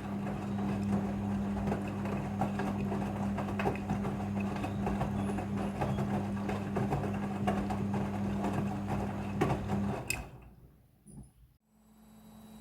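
Front-loading washing machine running with a steady electric hum over rushing, crackling water. The hum cuts off sharply about ten seconds in with a click, and after a brief lull a new, lower-level hum starts up near the end.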